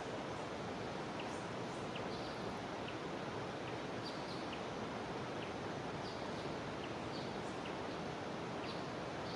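Jungle river water running with a steady rush, with brief high chirps from small animals scattered throughout.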